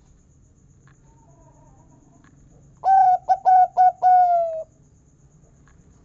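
Zebra dove (perkutut) cooing one song phrase about halfway through: four short clipped notes followed by a longer final 'kung' note that falls slightly in pitch.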